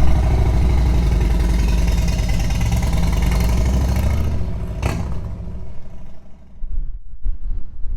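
Vehicle engine running with a steady low hum, which ends about five seconds in with a sharp click. Gusts of wind on the microphone follow.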